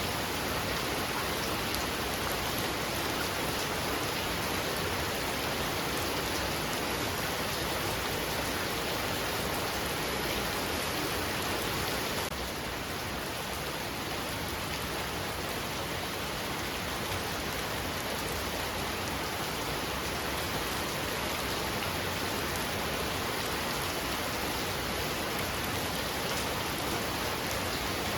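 Heavy rain pouring steadily, a dense, even hiss of countless drops. The level drops slightly about twelve seconds in, then holds.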